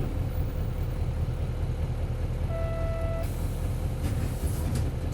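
Isuzu 8PE1-S V8 diesel engine of an Isuzu Cubic city bus running steadily, heard from inside the cabin. A short electronic beep sounds a little past halfway, followed by brief hisses.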